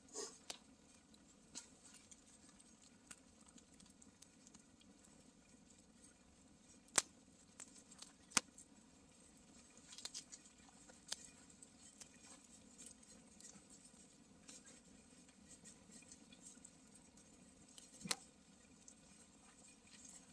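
Wood fire crackling faintly, with irregular sharp pops; the loudest pops come about seven and eight seconds in and again near the end.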